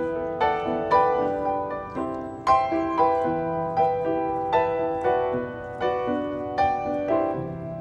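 Background music: a piano playing a slow, gentle melody, its notes struck about twice a second and left to ring, without singing.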